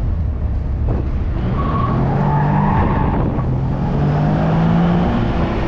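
Nissan 370Z Roadster's 3.7-litre V6 pulling under load, its note rising in pitch over the second half, heard from inside the open-top cabin over wind and road noise.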